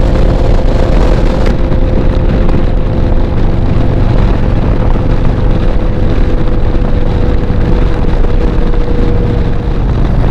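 Motorcycle engine running steadily while riding, with wind rushing over the helmet microphone.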